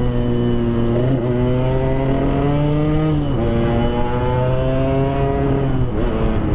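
Yamaha RX-King two-stroke single-cylinder motorcycle with an aftermarket PDK exhaust, ridden under acceleration. The engine note climbs steadily and drops back at gear changes about a second in, about three seconds in, and near the end.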